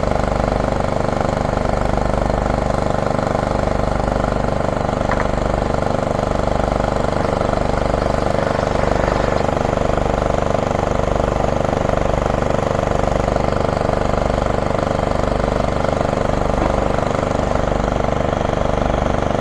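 Heavy demolition-site machinery, diesel excavators and a rock crusher, running steadily with an even engine hum.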